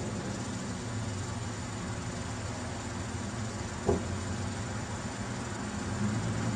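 Parked car's engine idling: a steady low hum under an even hiss, with one short sharp knock about four seconds in.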